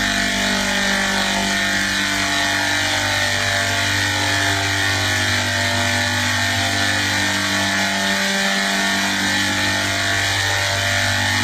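A steady machine drone: a constant low hum with a few steady tones in it and a hiss over the top, unchanging throughout.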